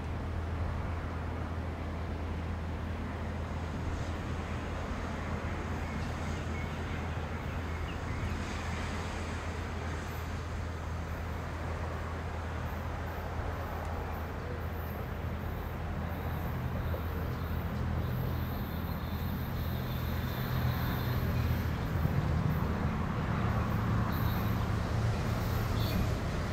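Steady low hum beside the standing freight train, then an approaching train's rumble that builds over the last several seconds.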